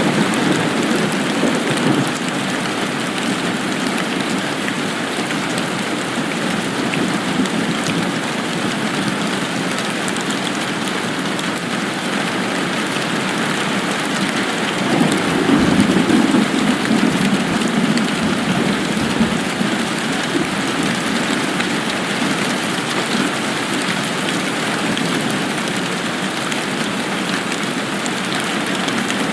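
Steady rain falling, an even hiss with no break. A low rumble swells up briefly about halfway through, then fades back into the rain.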